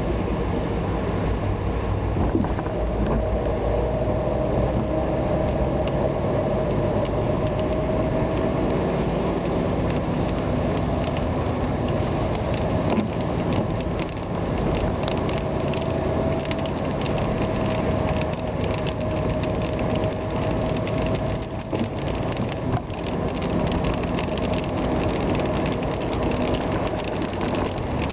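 A vehicle travelling on a wet road in the rain: steady engine and tyre noise with a faint tone that drifts slightly in pitch, and a fine mechanical ticking throughout.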